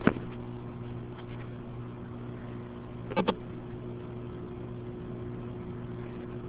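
A steady low machine hum with a faint hiss behind it, broken by two quick double clicks, one at the start and one about three seconds later.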